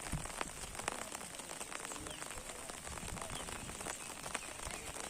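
Heavy rain during a windstorm: a dense, steady patter with many sharp ticks.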